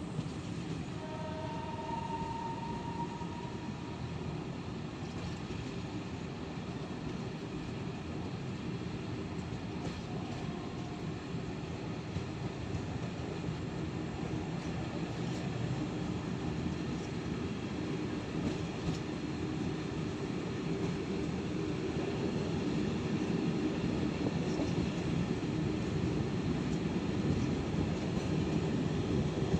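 Czech-built passenger coaches running along single track, heard from the carriage window: a steady rumble of wheels on rail mixed with rushing air. It grows gradually louder over the second half.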